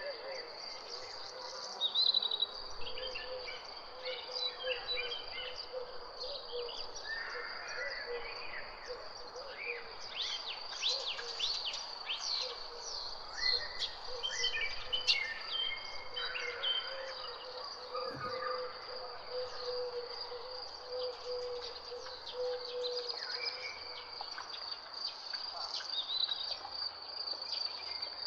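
Several birds chirping and trilling over a steady, high insect trill.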